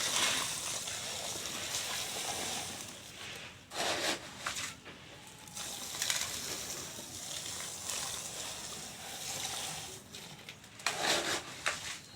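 Dry sand and cement powder pouring into water, with water sloshing and splashing. There are louder splashes about four seconds in and again near the end.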